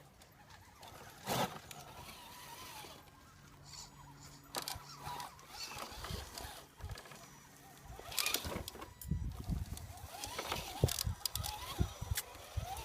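Radio-controlled scale rock crawler working over rocks: the whine of its small electric motor rises and falls, with a busy run of knocks and clatter from its tyres and chassis on the rock in the second half.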